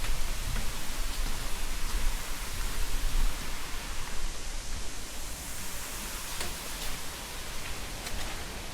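Wind outdoors: a gusting low rumble of wind buffeting the microphone, under a steady broad hiss like wind through foliage, with a few faint ticks.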